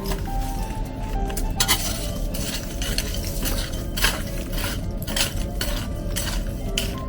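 Utensils clinking and scraping against dishes in a string of short, irregular clinks, with faint music underneath.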